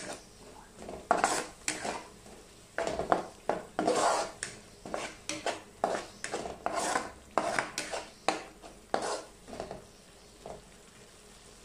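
Wooden spatula scraping and stirring a thick spice paste of onion, garlic and ground spices frying in ghee in a nonstick pan, in quick repeated strokes. This is the masala being fried down (koshano) before the meat goes in. The strokes stop about ten seconds in.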